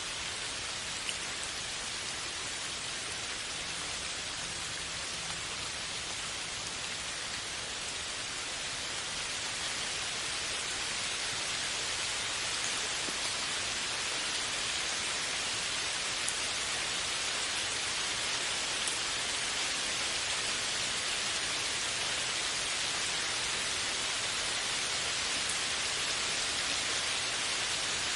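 Steady rain falling, a dense even hiss with a few faint drop ticks, growing slightly heavier about a third of the way in.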